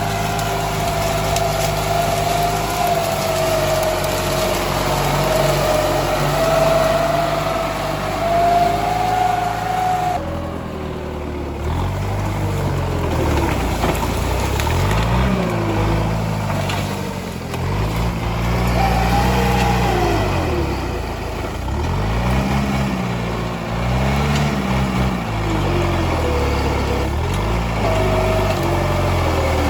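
Tractor engine running steadily with a high whine over it for about ten seconds, then revving up and down again and again as the tractor works through the bushes.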